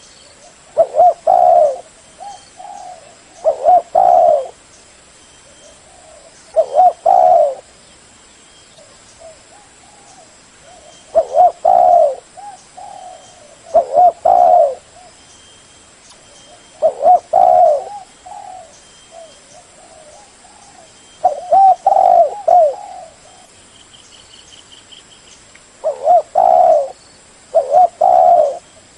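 Spotted dove cooing: loud phrases of a few low coos, repeated every few seconds, with softer coos in between.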